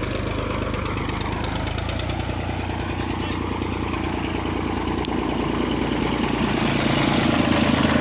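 Escorts 355 tractor's diesel engine running steadily at a low, even speed, growing slightly louder near the end.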